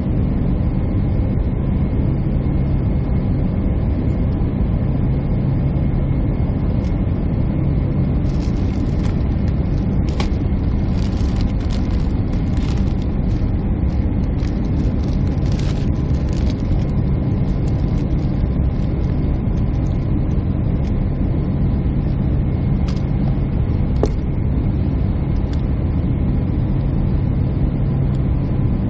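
Steady jet airliner cabin drone of engines and airflow, with a constant low hum. Faint scattered ticks and rustles come and go for a few seconds about a third of the way in.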